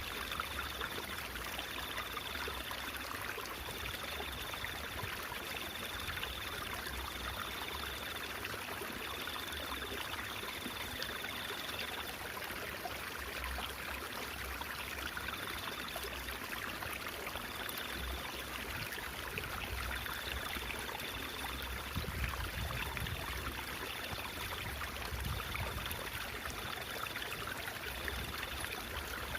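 Water of a small stream babbling and trickling steadily, with a faint high tone that keeps switching on and off.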